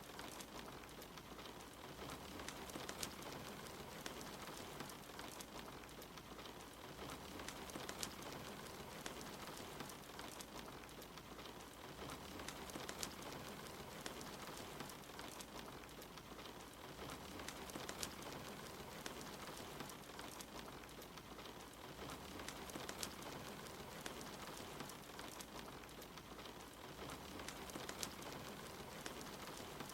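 Steady, soft rain hiss with scattered sharp crackles from a wood fire burning in a fireplace.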